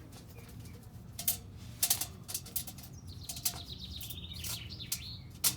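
A songbird warbling for about a second and a half in the middle, among scattered sharp clicks, over a steady low background hum.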